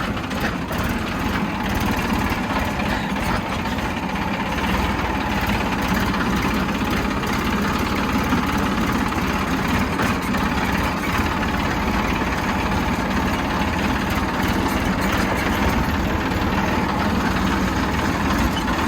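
Tractor engine running steadily, heard from on board the tractor, with a strong low rumble and no change in speed.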